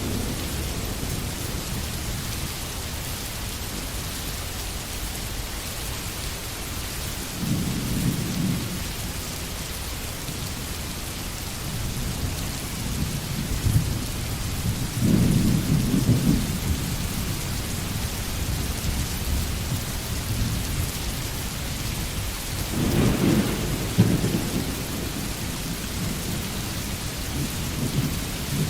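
Steady rain falling in a forest, an even hiss, with three low rumbles swelling up and dying away, spaced several seconds apart.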